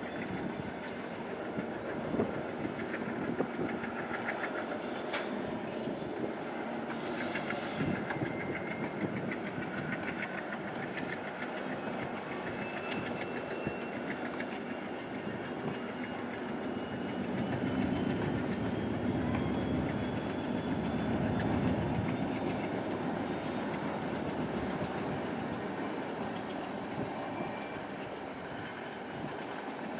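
Diesel-hauled passenger train running along the track: a steady rumble with scattered sharp clicks, which swells louder past the middle.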